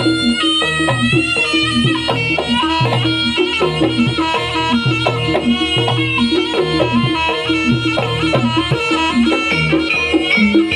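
Live Javanese traditional dance music: a reedy wind instrument plays a winding melody over a steady rhythm of drum strokes.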